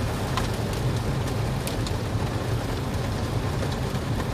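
Heavy rain falling on a car, a steady hiss over the car's low rumble, with a few sharp ticks of drops.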